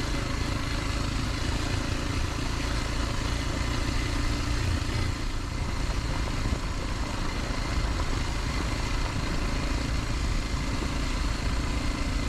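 Kawasaki KLX 230 dual-sport motorcycle's single-cylinder engine running steadily while riding, mixed with a steady rush of wind noise on the microphone.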